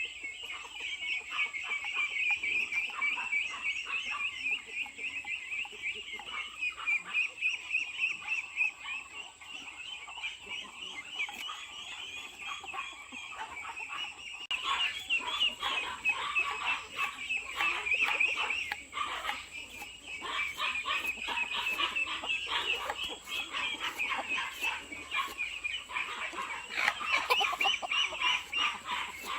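A flock of chickens clucking and calling, more busily in the second half, over a constant high trilling.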